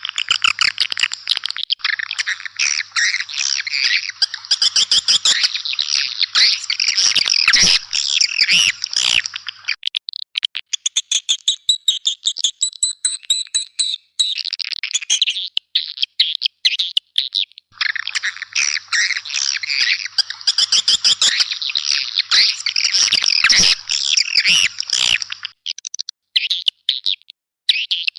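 Swiftlets calling: a dense, rapid chattering twitter that thins to scattered chirps about ten seconds in, turns dense again about eight seconds later, and thins once more near the end. It is a swiftlet lure-call recording, the kind played to draw swiftlets into a nesting house.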